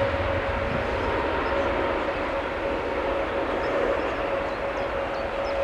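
Jet airliner engines running at an airport: a steady rumbling roar with a steady mid-pitched hum over it.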